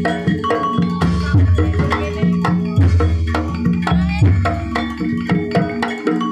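Javanese gamelan music for a troupe dance: struck pitched instruments and drums playing a busy rhythm, with a deep note coming round about every one and a half seconds.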